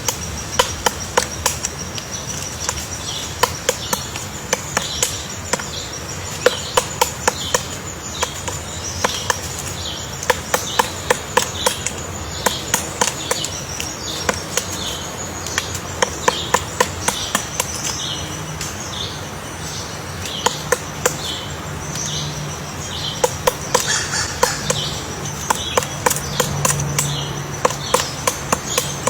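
Woodpecker chiselling into wood to dig out its nest hole: sharp knocks in quick bursts of four to six strokes, a burst about every second.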